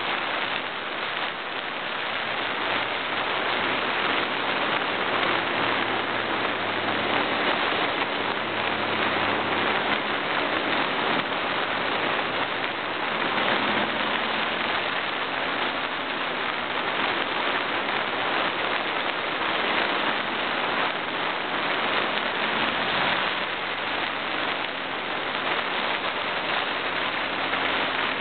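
Wind rushing over a camera microphone taped to a moving motorbike's indicator, a dense, steady noise, with the motorbike's engine faintly underneath, its pitch shifting up and down.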